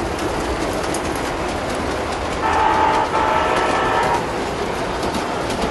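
Large-scale model train running on its layout with a steady rumble and clatter. About halfway through, its horn sounds two blasts, the second longer, then the running noise carries on.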